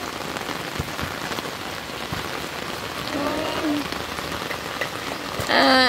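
Rain falling steadily, an even hiss of drops on the ground. A voice breaks in near the end.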